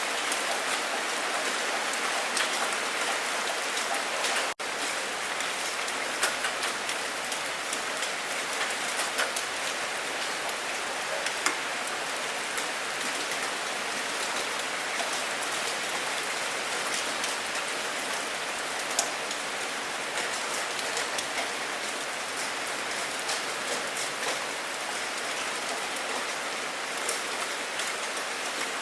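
Steady rain falling, with many individual drops ticking through the hiss. The sound cuts out for an instant about four and a half seconds in.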